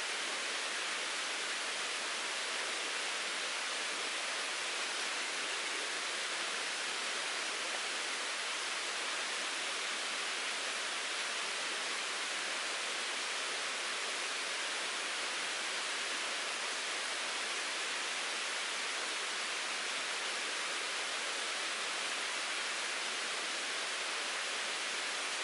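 Mountain stream babbling over rocks: a steady, even rush of running water with no change.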